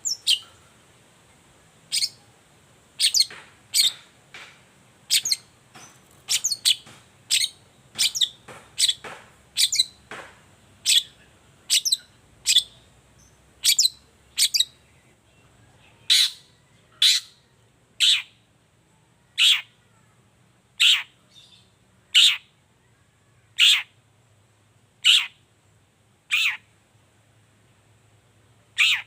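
Long-tailed shrike (cendet) giving its sharp 'toet toet' call, each note a quick downward sweep. The notes come bunched, several a second, in the first half, then settle to one about every second and a half. It is a lure call used to provoke caged shrikes into calling.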